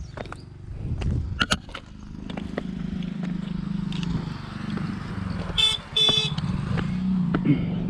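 Motorcycle engine running under way, its hum building about a second in, with a vehicle horn honking twice in quick succession about two thirds of the way through.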